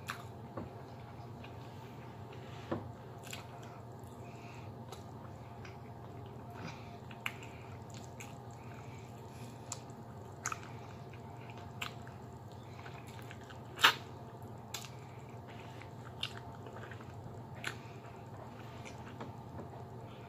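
Close-miked chewing and biting as meat is gnawed off the bone by hand, with scattered wet mouth clicks and smacks, one louder smack about 14 seconds in. A steady low hum runs underneath.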